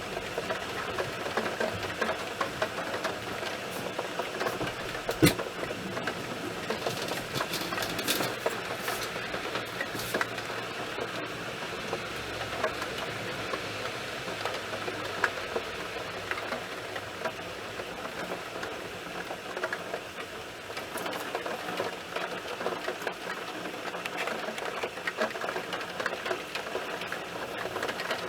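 Heavy thunderstorm rain falling, a dense steady patter of countless drops striking hard surfaces, with one sharper tap about five seconds in.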